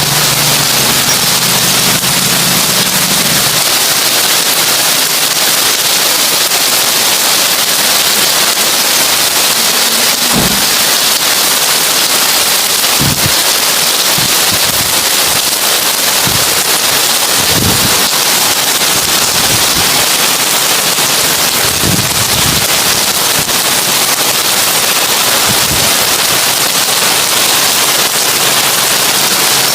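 Heavy rain on a tin roof: a loud, steady, dense hiss of drops, with a few short, deeper knocks scattered through the second half.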